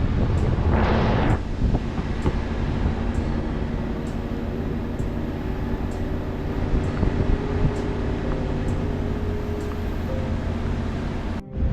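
A vehicle driving along a road: a steady low rumble of engine and road noise with wind on the microphone, and a brief louder rush of noise about a second in.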